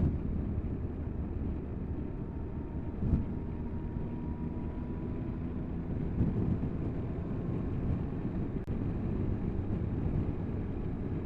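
Triumph Tiger 1200 motorcycle on the move: a steady rush of wind over the microphone mixed with the engine's steady drone, with a brief knock about three seconds in.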